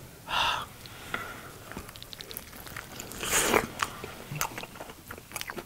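Two people biting into and chewing sauce-coated fried chicken drumsticks close to the microphones: two louder bites and a run of small wet chewing clicks.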